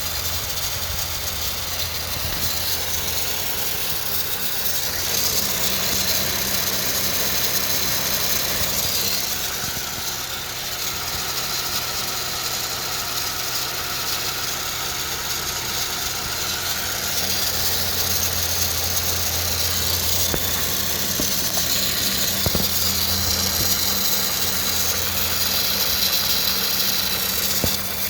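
A 2013 Honda Civic EX-L's four-cylinder engine running steadily with a rattling buzz from the engine bay, its strength swelling and easing every few seconds. The noise began after belt dressing was put on the serpentine belt. It has not been cured by a new belt, tensioner pulley or PCV valve, and its cause is unknown.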